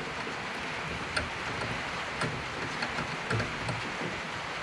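A few light, irregular clicks from a hand tool being turned to tighten the Phillips screw that holds a rear brake drum, over a steady background hiss.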